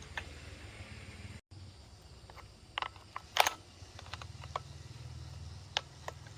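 Scattered sharp clicks and taps of tools and small parts being handled, a quick cluster of them about three seconds in, the loudest at about three and a half seconds, over a low steady hum.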